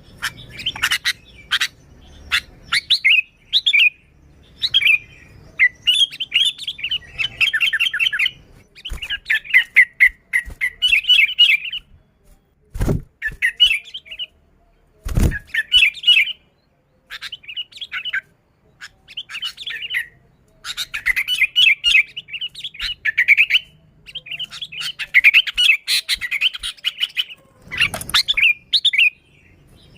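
Sooty-headed bulbul (kutilang) singing busily: rapid chattering, warbling phrases one after another with short pauses. Two sharp knocks stand out about halfway through.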